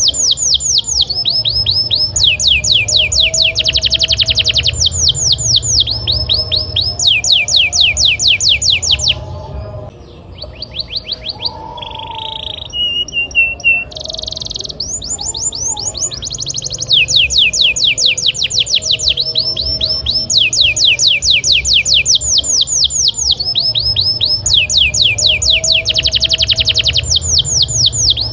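Domestic canary singing: long, fast trills of rapidly repeated down-sweeping notes, switching from one trill to another, with a brief break and a few different notes about nine seconds in before the trills resume.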